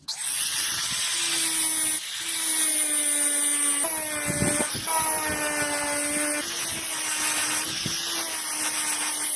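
Electric power tool working steel blade stock, running with a steady whine over a bright hiss. The pitch shifts slightly a few times, and the sound starts and stops abruptly.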